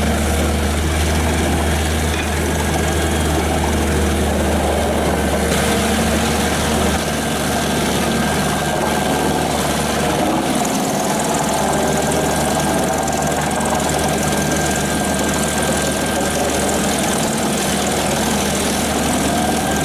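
Large diesel-powered industrial drum wood chipper running steadily, a continuous low engine hum with the noise of the chipping drum over it. The low hum eases slightly about seven seconds in, and a faint steady whine runs through the later part.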